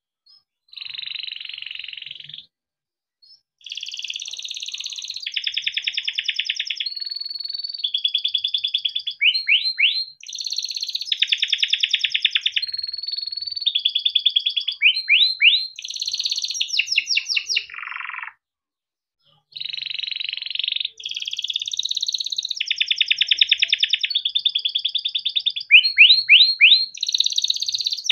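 Canary singing a long song of rapid rolling trills, each phrase a second or two long, run together with quick sweeping notes. It breaks off twice briefly, about three seconds in and about two-thirds of the way through.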